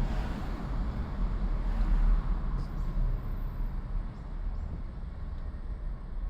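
A car driving on city streets: a steady low rumble of engine and tyres with road noise, swelling briefly about two seconds in.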